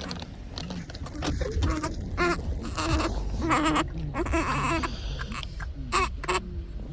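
A young child crying and wailing in drawn-out, wavering cries, over a steady low rumble.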